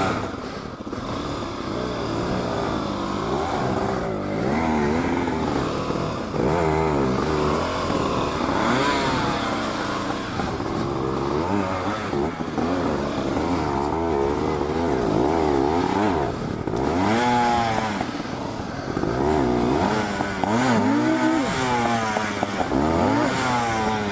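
Dual-sport motorcycle engines revving up and down over and over, the throttle opened and closed in short bursts as the bikes work through slick mud.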